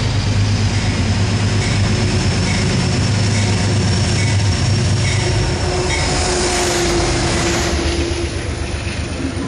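Commuter train running in close along a station platform: a steady rumble of the locomotive and wheels on the rails, with a thin steady squeal joining in around the middle.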